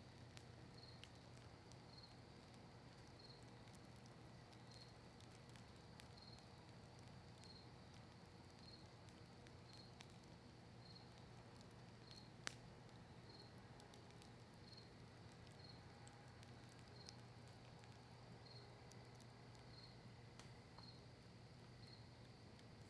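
Faint campfire of cedar and maple wood, with sparse small crackles and one sharper pop about halfway through. A cricket chirps evenly, about once a second.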